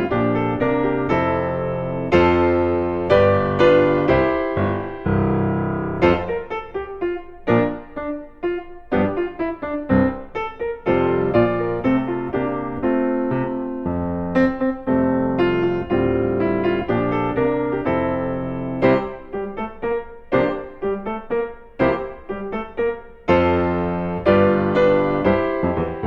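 Background piano music, notes played at a lively, bouncing pace.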